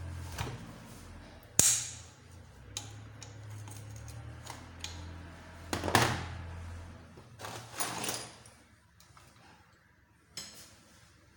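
Metal tools and small motorcycle engine parts clinking and knocking as the engine is taken apart: scattered sharp clanks, the loudest about a second and a half in, over a low steady hum that stops about seven seconds in.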